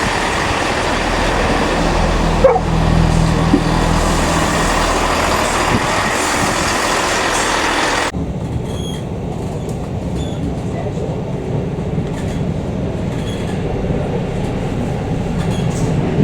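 Class 158 and Class 156 diesel multiple units: a loud, steady diesel-train rumble and noise that cuts off abruptly about halfway through, giving way to a quieter steady low rumble with faint ticks.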